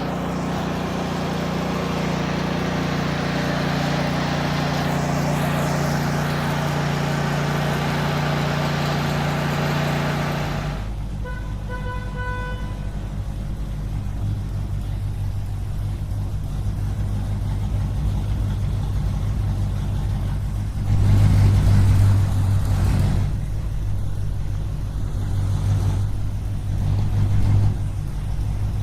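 Heavy vehicle engines running, with a horn sounding briefly about eleven seconds in; the engine then settles to a low hum that swells louder twice near the end.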